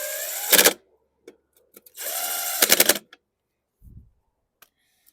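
Cordless impact driver running two screws in on the mower's recoil starter: two short runs about two seconds apart, each a rising motor whine that breaks into a rapid hammering clatter as the screw seats. A dull low thump near the end.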